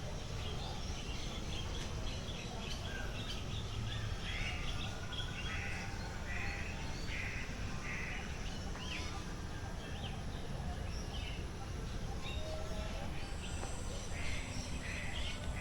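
Birds calling and chirping in an aviary: many short calls at varying pitch, over a steady low background hum.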